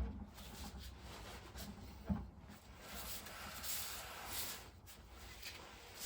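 Quiet handling sounds: a single knock about two seconds in, then a spell of soft rustling.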